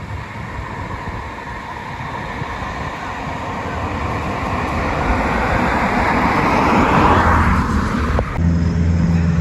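A vehicle passing: a rushing noise that builds steadily, peaks about seven seconds in and drops in pitch as it goes by. Near the end it changes suddenly to a steady low hum.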